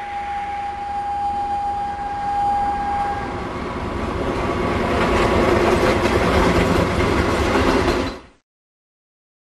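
Norfolk Southern railroad snow plow and its locomotive passing at speed: a rising rush of wheels on rail, engine noise and blown snow, loudest just before it cuts off suddenly about eight seconds in. A steady high tone sounds over the first three seconds.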